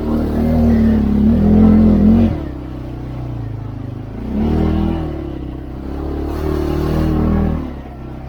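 CFMoto 520L engine pulling under throttle, revving up and easing off in surges: a strong rise over the first two seconds that drops off sharply, then shorter surges in the middle and near the end.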